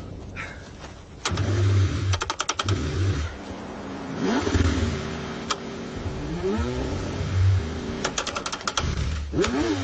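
Car engine being cranked on a cold start in repeated bursts, the starter turning it over without it settling into a run. This is the sign of an engine struggling to start in freezing cold.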